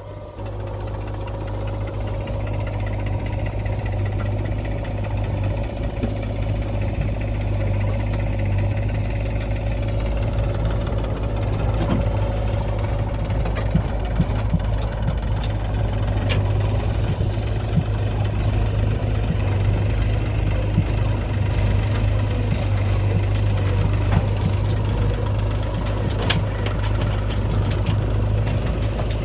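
Diesel engine of a backhoe loader or tractor running steadily close by: a low, even drone with scattered clanks. It grows louder over the first couple of seconds.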